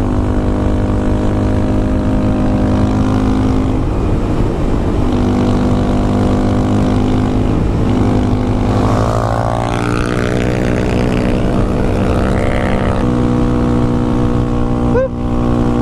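Honda Grom's 125 cc single-cylinder engine through a Yoshimura exhaust, running steadily at road speed, heard from the rider's helmet. The engine note steps in pitch a few times as the throttle changes.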